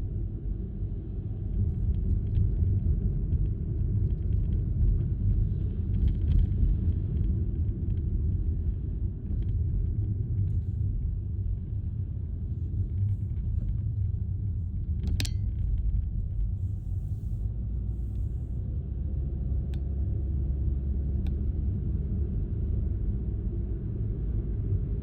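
Steady low outdoor rumble, with one sharp click about fifteen seconds in.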